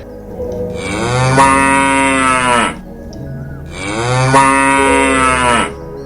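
A cow mooing twice: two long calls of about two seconds each, the pitch rising slightly and then dropping at the end of each.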